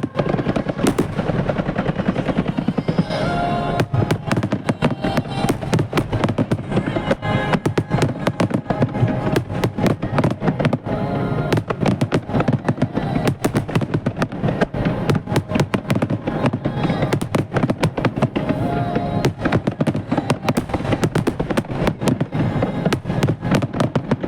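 Dense, continuous barrage of aerial firework shells bursting and crackling, many reports a second, with show music playing underneath.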